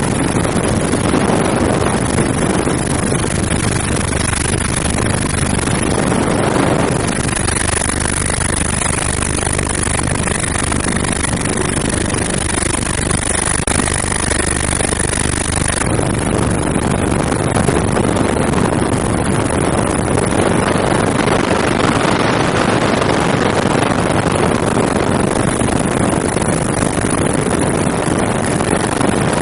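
Helicopter in flight, heard from on board: steady engine and rotor noise with a high whine running over it.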